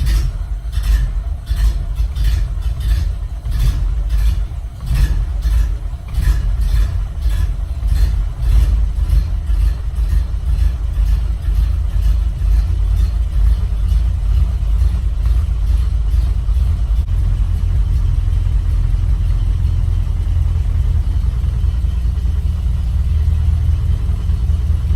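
Ford car engine running just after a cold start, a steady low rumble. Through the first several seconds it has an even, pulsing beat, then it settles into a smoother run.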